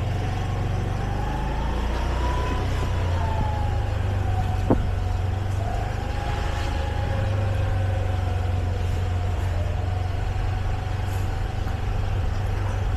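Motorbike engine running steadily while riding, with road and wind noise; its pitch rises slightly and settles back in the first few seconds. A single sharp click about five seconds in.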